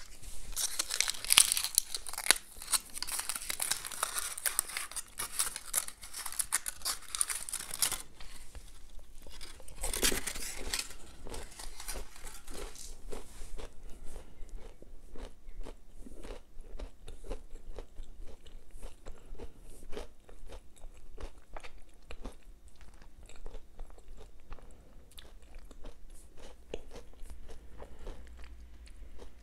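Close-miked crunching and chewing of a Ferrero Rocher, its wafer shell and hazelnut pieces: a dense, loud crackle for the first eight seconds, another short burst near ten seconds, then softer crunching clicks as the chewing goes on.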